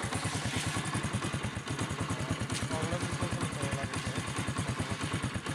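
An engine running steadily at a low, even idle with a rapid, regular beat. A faint voice is heard briefly near the middle.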